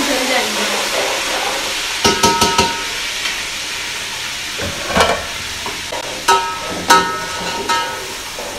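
Onions and whole spices sizzling in hot oil in a pot, with a metal spoon clanking against the pot several times as they are stirred, some of the strikes ringing.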